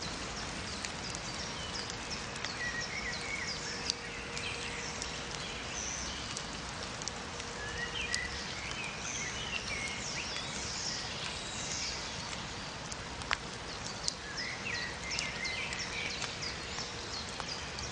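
Rainforest ambience: many birds chirping and whistling over a steady hiss, with a few sharp clicks.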